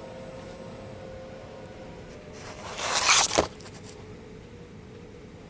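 Quiet room tone with a faint steady hum, and one brief rustling scrape about three seconds in that swells and stops sharply.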